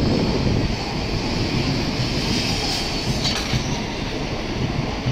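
N700S Shinkansen train departing and running past the platform: a steady rush of wheels on rail and moving air, with a short hiss about three seconds in.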